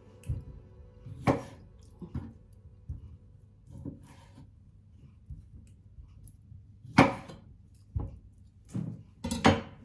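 Irregular knocks and clatters of kitchen work, such as utensils and dishes set down or handled on a counter, about a dozen in all. The loudest come a little over a second in, about seven seconds in, and near the end.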